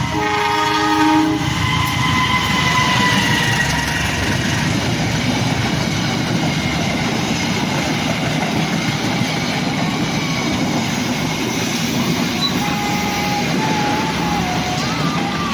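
Train passing close by: the locomotive horn sounds a chord of several tones that cuts off about a second in, followed by the steady rumble and clatter of the wheels on the rails, with faint high squealing tones.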